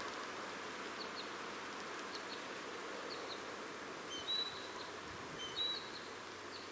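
Small songbirds giving short, high chirps a few times in the second half, over a steady faint hiss of outdoor background noise.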